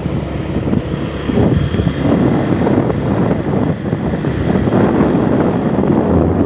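A vehicle running steadily with wind rushing over the microphone, growing louder about a second in.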